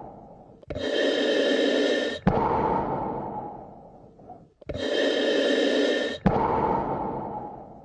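Slow, deep human breathing, close up: about two full breaths, each a bright breathy hiss of about a second and a half followed by a longer breath that fades away.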